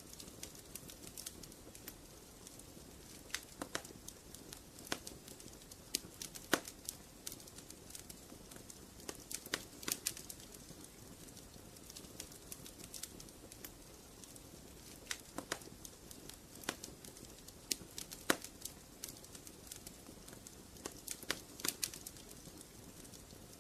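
Wood fire crackling in a fireplace: irregular sharp pops and snaps, some in quick clusters, over a soft steady hiss of burning.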